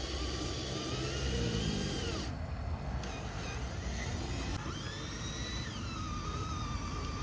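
Small electric motors of RC model trucks whining, their pitch gliding up and down as they speed up and slow down, over a steady hiss.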